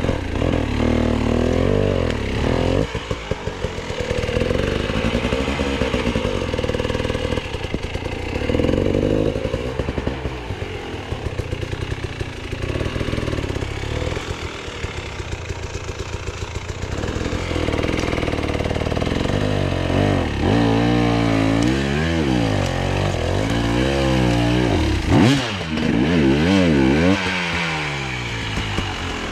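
Enduro motorcycle engine revving up and down over and over, its pitch rising and falling in quick swells, with one sharp knock late on.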